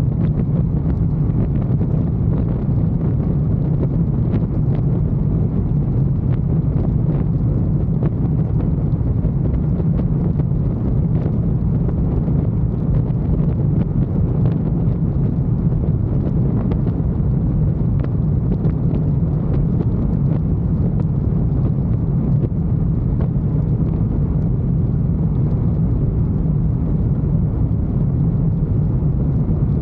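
Motorcycle riding at a steady speed: a constant low drone of engine and road with wind rushing over the microphone, unchanging throughout.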